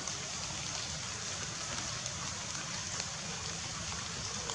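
Steady even hiss of light rain with faint scattered ticks of drops.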